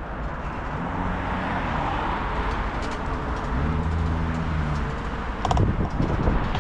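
Road traffic passing: vehicle engines running steadily over a noisy background. A louder, irregular rumbling clatter starts near the end.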